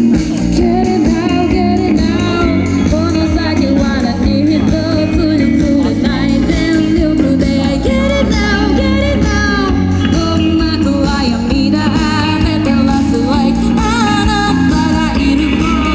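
Live rock band playing, with electric guitar, bass and drums under a woman's lead vocal.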